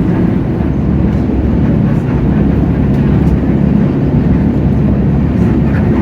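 A Hino J08E-VN inline-six turbodiesel engine of a city bus, running steadily at an even pitch while the bus is under way, heard from inside the cabin.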